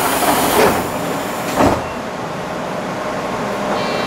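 Tobu Railway train running slowly, heard from inside the front car: steady running noise with a single sharp clunk about a second and a half in, after which the high hiss drops away.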